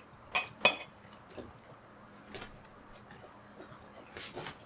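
Cutlery clinking twice against a dish, with a short ring, then a few faint taps of utensils on tableware.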